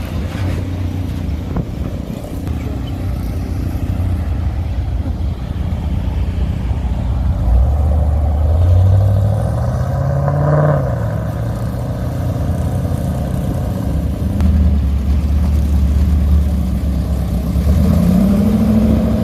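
Hot rod and car engines running as cars pull out and drive past, one engine revving up with a rising pitch about halfway through and another rising again near the end.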